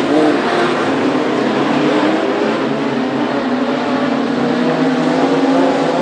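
Modified sedan race cars' engines running hard at racing speed, several engine notes rising and falling as the cars lap.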